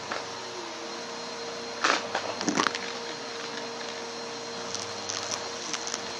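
Vacuum cleaner running steadily with a constant motor whine and airflow hiss. About two seconds in, it picks up debris with a couple of sharp crackles, and there are small light ticks near the end.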